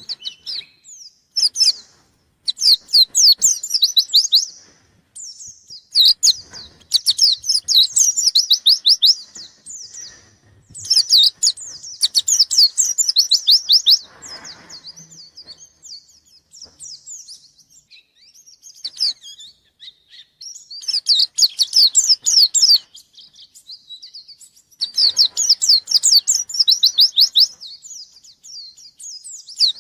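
White-eye (pleci) singing hard: fast phrases of rapid, high, sharply falling notes, each lasting a second or two and repeated every few seconds.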